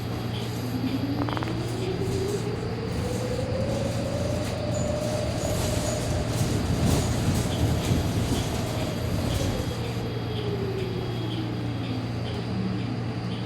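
Electric trolleybus traction motor whine of a 2018 New Flyer Xcelsior XT40 with Vossloh Kiepe motors, rising in pitch as the bus picks up speed for about five seconds, then falling as it slows down, over a steady low hum. This unit is known to its riders as a weird-sounding bus.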